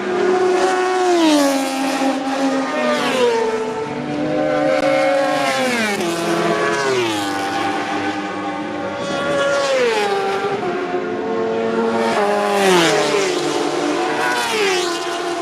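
Supersport race motorcycles passing one after another at high speed, each engine's high-revving note dropping sharply in pitch as it goes by. About half a dozen bikes pass in turn, a new one every one to three seconds.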